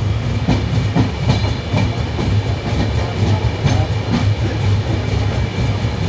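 Passenger train departing, its wheels clacking irregularly over rail joints above a steady low rumble.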